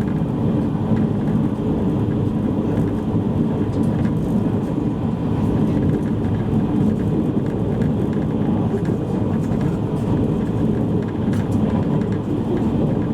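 Steady rumble of a JR East E653 series electric train running on the rails, heard from inside the passenger car, with a few faint clicks.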